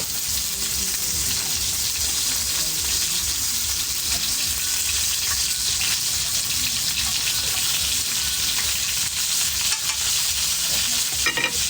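Steady crackling and sizzling from a wood cooking fire, with meat rolls wrapped in lá xương sông leaves grilling on a rack over it.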